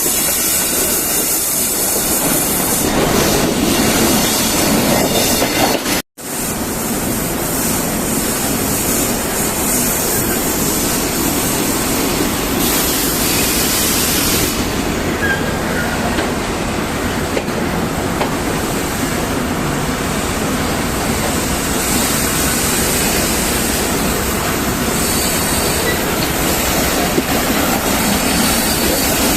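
A passenger train running along the track: a steady rush of wheel-on-rail noise. The sound cuts out for an instant about six seconds in.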